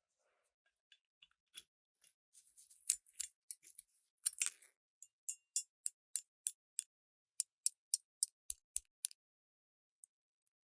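Rivet gun's metal mechanism being worked by hand: a cluster of sharp clicks and rattles, then a regular run of single clicks about three a second that stops near the end.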